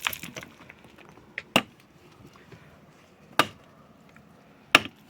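Sharp chopping blows of a hand tool, four in all, spaced about one and a half to two seconds apart.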